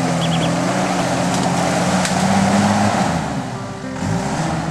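Isuzu Trooper's engine running hard under load as the mud-bogged 4x4 tries to pull free, its pitch rising about two seconds in and easing back a second later, with background music over it.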